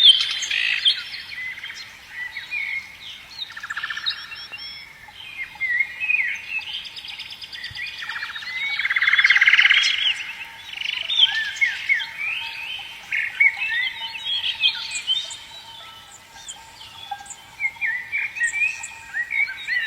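Several songbirds singing and calling at once, a busy mix of chirps, whistled notes and rapid trills. The loudest is a rattling trill about nine seconds in.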